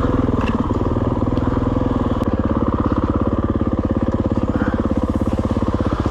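Dirt bike engine running steadily, its rapid firing beat even and unchanging, with no rise or fall in revs.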